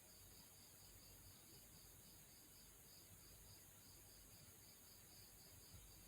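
Near silence: faint steady hiss with a faint high-pitched pulsing, about five pulses a second.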